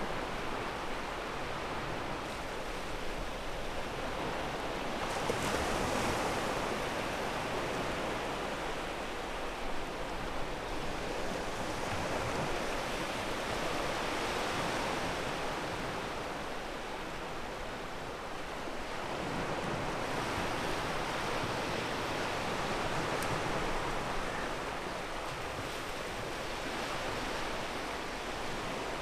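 Ocean surf washing on a pebble beach: a continuous rush of waves that swells and eases every eight seconds or so.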